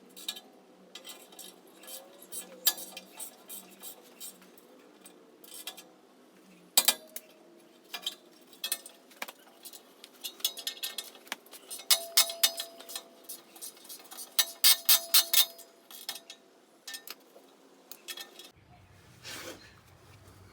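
Metal tools and parts clinking and clattering in a run of sharp clicks, some with a brief ringing tone, busiest past the middle.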